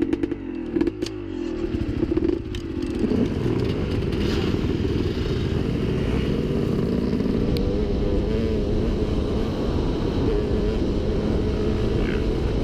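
Dirt bike engine revving unevenly at low speed, with a few sharp clicks in the first seconds. About three seconds in it settles into steady running at higher revs.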